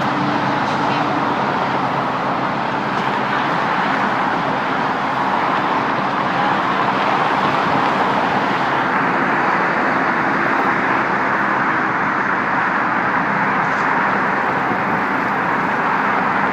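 Steady road traffic noise: an even, continuous rush with a faint low engine hum underneath.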